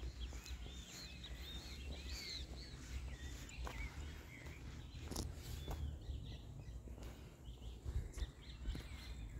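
Small birds chirping and twittering in quick, curling calls that thin out after about six seconds, over a steady low rumble, with a couple of sharp clicks.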